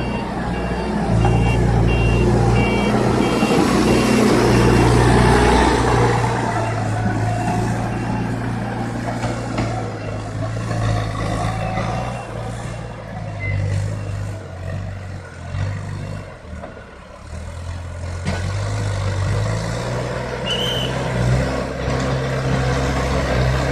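CASE backhoe loader's diesel engine running under varying load, getting louder over the first few seconds, easing off around two-thirds of the way through, then picking up again. A reversing alarm beeps a few times at the start.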